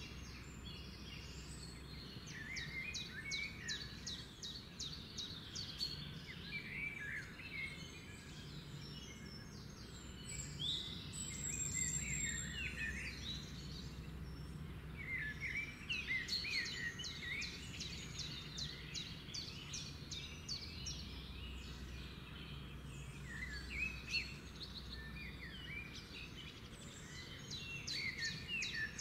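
Small birds chirping and twittering busily, with quick rising and falling calls and short rapid trills, over a low steady background noise.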